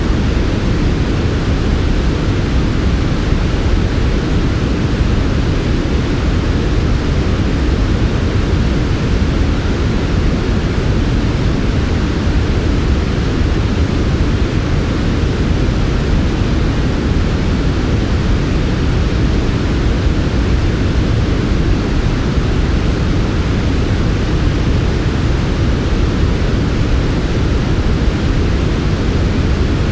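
Steady synthetic white noise, softened so its energy lies mostly in the low end, giving an even rumbling hiss that never changes.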